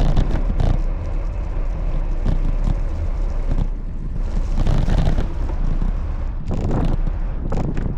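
Wind buffeting the microphone of a moving bicycle rider, a heavy, gusting low rumble.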